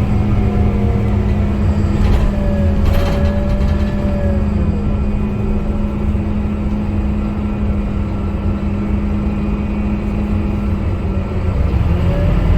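Scania K250UB city bus's diesel engine running steadily under way, a constant drone with a low rumble. A whine rises and falls in pitch about two to four seconds in and again near the end, and a brief rattle sounds about two to three seconds in.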